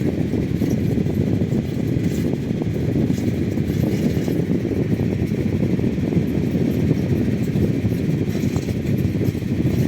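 Fan running with a steady, engine-like rumble that sounds like a generator.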